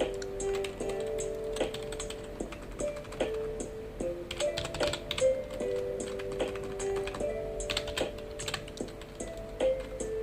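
Computer keyboard typing: quick, irregular key clicks in a steady flow. A soft background melody of held notes plays under it.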